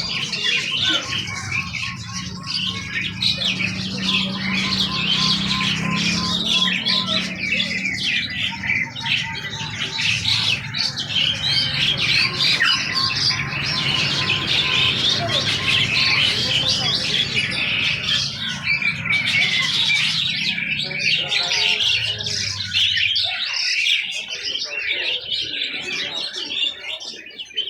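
Many caged songbirds chirping and squawking at once, a dense, continuous chorus of overlapping calls. A low background hum under it stops about three-quarters of the way through.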